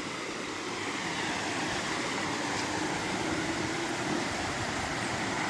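Steady rushing hiss of water coming down a waterfall that is running low.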